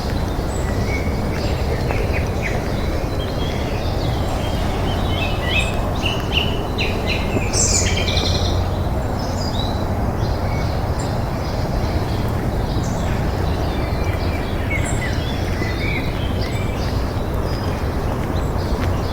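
Songbirds chirping and singing in short, rapid phrases, busiest a few seconds in, over a steady low background noise.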